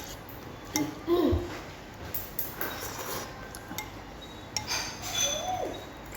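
Kitchen clatter: dishes and metal utensils clinking and knocking a few separate times.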